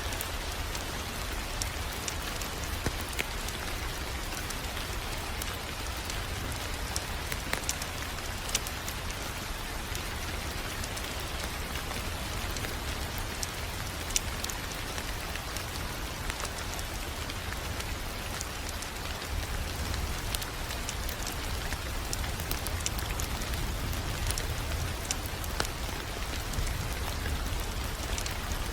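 Wood fire crackling in a fireplace: a steady hiss and low rumble with sharp pops and snaps scattered irregularly throughout.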